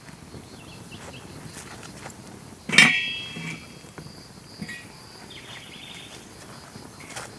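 A single sharp clank about three seconds in that rings briefly, over a steady outdoor background hiss with a few faint ticks.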